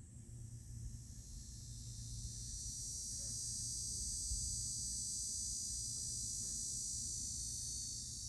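Insect chorus trilling steadily at a high pitch, swelling over the first couple of seconds and then holding, over a faint low rumble.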